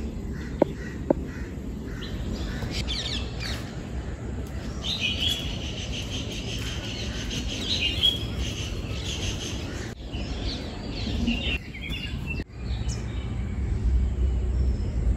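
Small birds chirping and calling, with a long trilling call a few seconds in, over a low steady background rumble.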